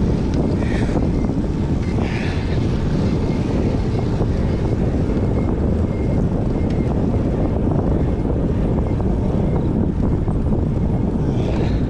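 Steady wind noise over the microphone of a camera riding on a road bicycle at speed, a low continuous rumble with no rhythm.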